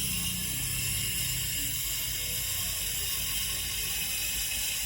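Angle grinder running steadily in the background, a continuous high-pitched whine over a low rumble.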